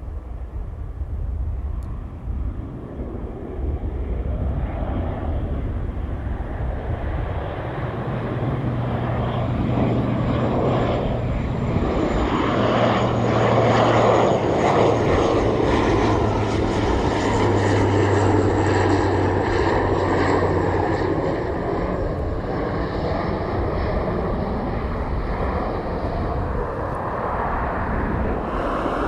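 Fixed-wing airplane passing close by, its engine noise swelling to its loudest about halfway through and staying loud, with a low steady hum and a faint high whine.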